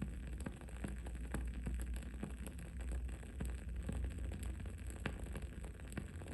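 Wooden candle wick crackling, with irregular sharp pops several times a second, over a steady low rumble.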